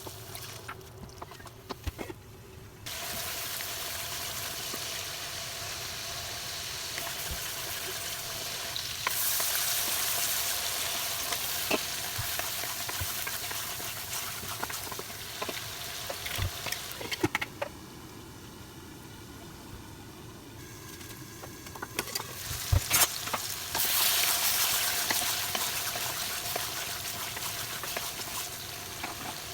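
Food frying in a hot pan, sizzling steadily while it is stirred, with scattered knocks of the utensil against the pan. The sizzle swells louder twice, around a third of the way in and again near the end.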